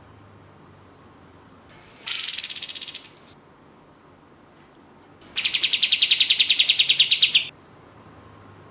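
Kapas tembak (katem) songbird calling in two bursts of fast, rattling trills: a short high one about two seconds in, then a longer one of about two seconds, each a rapid run of repeated notes.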